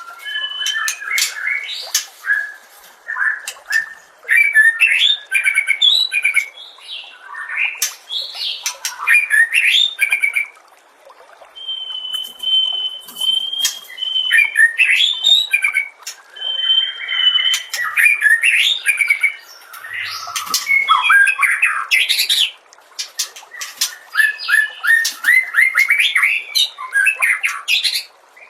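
White-rumped shama (murai batu) singing a long, varied song: rising and falling whistled phrases, harsh chattering notes and rapid runs of repeated notes, broken by short pauses. It holds a few long steady whistles a little before the middle.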